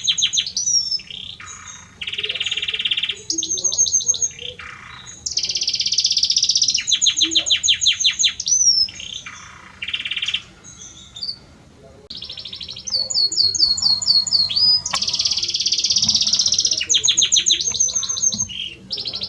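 Male Belgian canary singing: rapid trills and rolls in phrases a second or two long with short pauses between them, mixed with a few sliding whistled notes.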